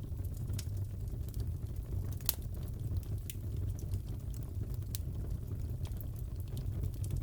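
Wood fire crackling in a fireplace: a steady low rumble with scattered sharp pops and snaps, the loudest about two seconds in.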